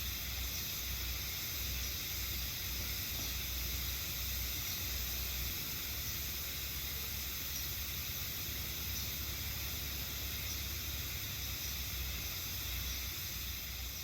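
Steady chorus of cicadas, a dense even buzz high in pitch, over a low rumble.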